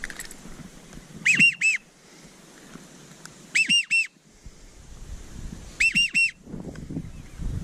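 A duck whistle call blown in three quick notes, each rising and falling in pitch, repeated three times about every two and a half seconds, with wind rumble on the microphone between them.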